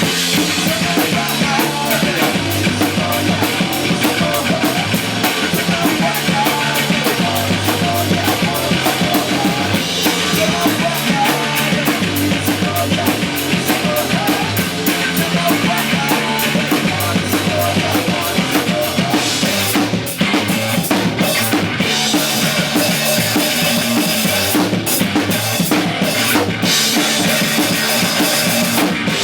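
Rock band playing an instrumental passage with a full drum kit: bass drum and snare under a fast, even cymbal pattern. About two-thirds of the way through the cymbals break into a few sharp stops.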